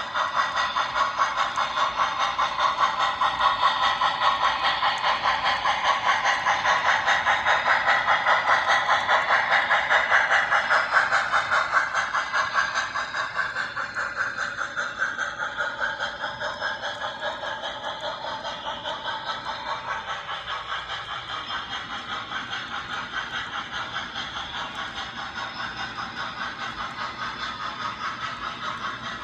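A long train rolling past, its wheels clattering in a fast, steady rhythm. It is loudest in the first half, then slowly fades as the train goes on.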